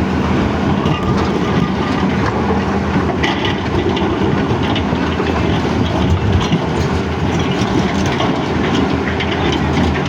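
Heavy equipment diesel engine running steadily under load, with scattered knocks and rattles of rock and metal.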